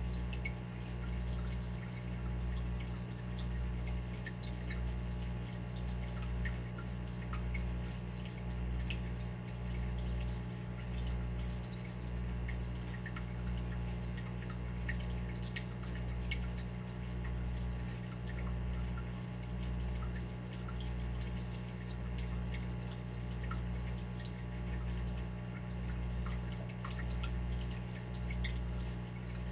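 Water dripping: scattered small drops ticking irregularly over a steady low rumble that swells and fades gently about once a second.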